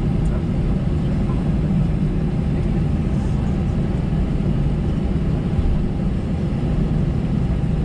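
Airbus A320-214's CFM56 turbofan engines running at taxi power, heard inside the cabin as a steady low rumble.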